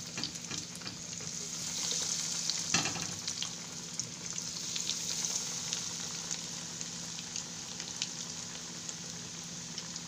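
Breadcrumb-coated chicken and potato cutlets shallow-frying in hot oil in a frying pan, a steady sizzle full of small crackles and pops, briefly louder about three seconds in.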